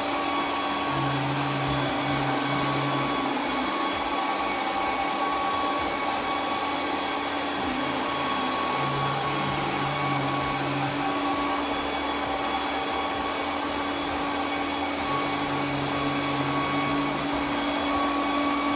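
Roborock Q10V+ robot vacuum running steadily with a constant hum, its suction motor at work. A lower hum joins in three times, for about two seconds each.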